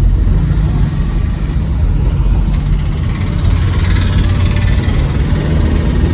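Truck engine running steadily, a loud low-pitched drone.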